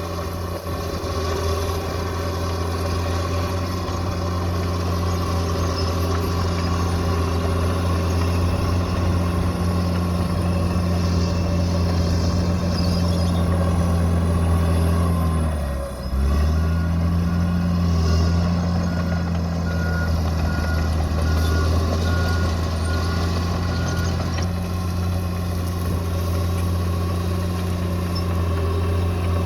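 Bulldozer's diesel engine running steadily at working revs. About halfway through, the revs dip sharply and recover, and a pulsing reverse-warning beep sounds for several seconds afterwards.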